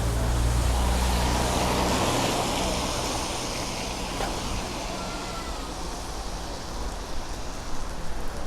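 A car passing on a wet road: a low engine hum and tyre hiss, loudest in the first two seconds and then fading, with rain falling.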